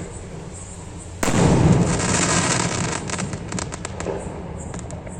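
A 3-inch sky shot aerial firework shell bursting with a loud bang about a second in, followed by a hiss that slowly fades. A run of sharp crackles follows near the end.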